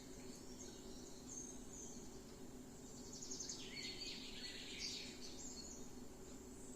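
Faint birds chirping in short high calls, busiest about halfway through, over a steady low background hum.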